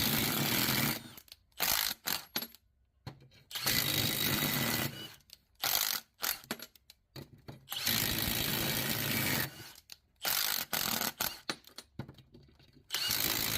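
Impact wrench hammering in bursts of a second or two, about four times, with short trigger blips in between. It is backing out cylinder studs that have been heated with a torch to free them.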